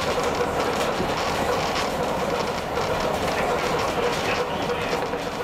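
Heritage train on the Roslagsbanan narrow-gauge line running steadily, heard from on board: an even rolling noise with a steady hum and light clicks from the wheels on the track.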